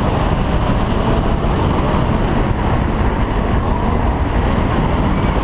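Car being driven on a wet skid pan: a loud, steady rush of engine, tyre and wind noise with no clear engine note.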